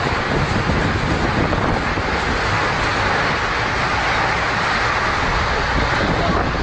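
Steady, loud rushing roar of storm wind gusting against the microphone, with a hiss over it.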